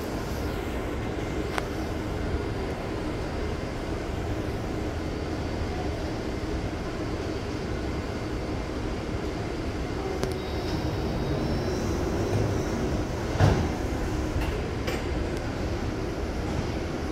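Taipei Metro train running, a steady rumble with a faint high whine joining about ten seconds in. One short, loud knock comes about three seconds before the end.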